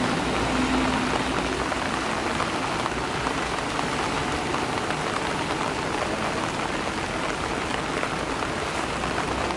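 Steady rain falling on broad lotus leaves and the water of a lotus tub, a dense run of small drop hits.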